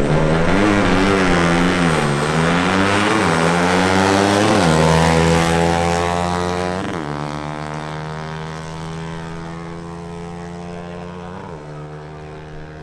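Motorcycle engines at full throttle in a drag race, accelerating hard through the gears. Engine pitch climbs, then drops sharply at each of several upshifts. The sound fades as the bikes pull away down the strip.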